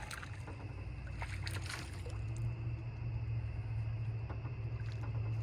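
Steady low hum of a boat's motor, getting louder about two seconds in, with a few short clicks in the first two seconds.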